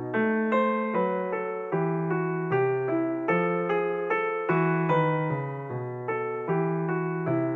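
Background piano music: a gentle, even flow of notes over a repeating bass line.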